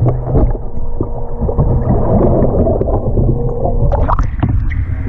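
Muffled underwater gurgling and bubbling with a steady low hum, as heard by a microphone submerged while a kayak is rolled in a swimming pool. About four seconds in it breaks the surface with a burst of splashing.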